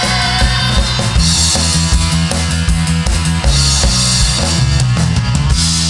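Live rock band playing: drum kit with regular kick and snare hits under bass and electric guitar, with spells of crashing cymbals about a second in, around the middle, and again near the end.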